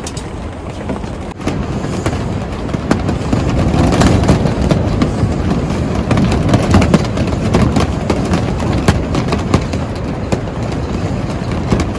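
Strong gusting wind rumbling and buffeting, growing louder about two seconds in, with frequent sharp ticks and snaps mixed through it.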